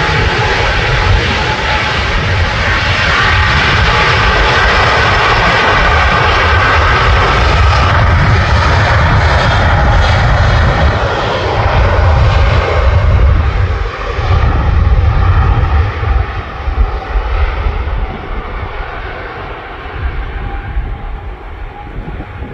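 Jet airliner's engines running loud and close: steady whining tones over a low rumble. It grows quieter and duller over the last several seconds as the aircraft moves away.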